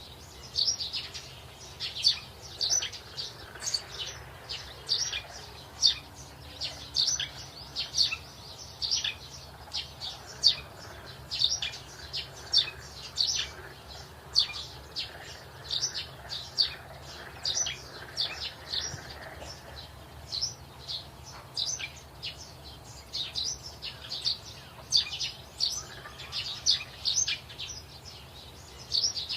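Birds chirping: many short, high chirps, several a second, continuing without a break.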